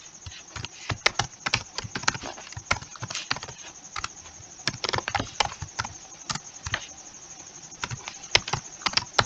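Typing on a computer keyboard: irregular key clicks, several a second, coming in uneven runs with short pauses.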